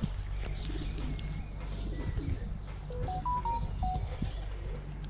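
Birds calling: short high chirps that drop in pitch, and a brief run of clear whistled notes stepping up and back down about three seconds in.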